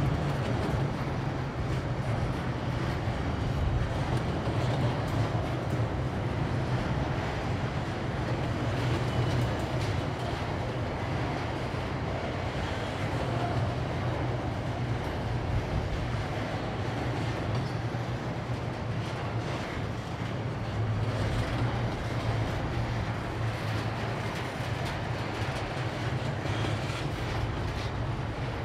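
Freight train running across a railroad bridge: a steady low rumble of the rail cars with the clatter of wheels on the track.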